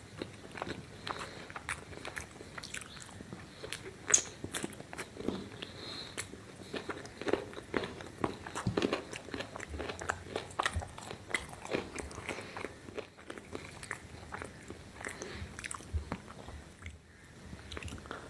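Close-miked mukbang eating: a person biting and chewing food, with crunchy bites and many small irregular mouth clicks and crackles. One sharp bite stands out about four seconds in.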